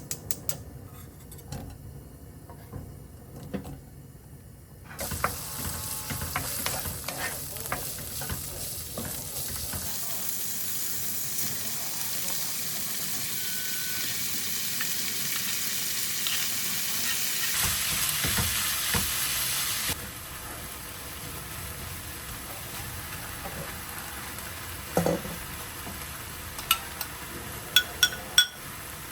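Food sizzling and frying in a pan while being stirred, with a few sharp utensil clicks near the end. The sizzle changes abruptly in level several times.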